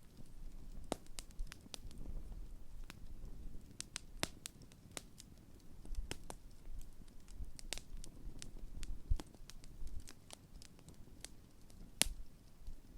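Large wood campfire crackling, with irregular sharp pops from the burning logs over a low rumble of flame. The loudest single pop comes near the end.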